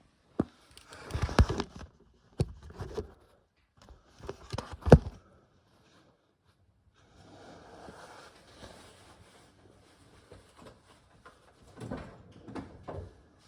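Handling noises: a series of sharp knocks and clicks with bouts of rustling. A softer, steadier rustle runs through the middle.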